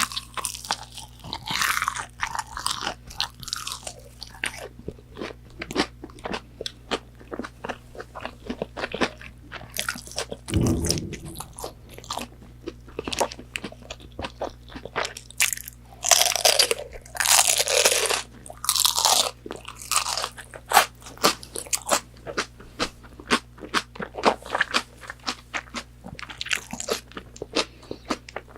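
Close-miked crunching bites and chewing of McDonald's chicken nuggets, their fried breading crackling with dense crisp clicks and a few louder bites more than halfway through. A single low thump comes about ten seconds in.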